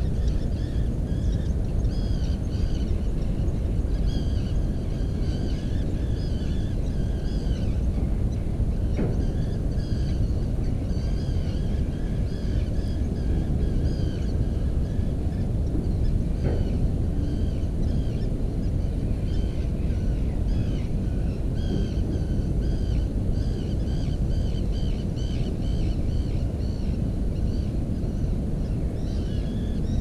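Small birds chirping in a continuous stream of short, repeated high notes, over a louder steady low rushing noise. Two faint clicks stand out about a third and about halfway through.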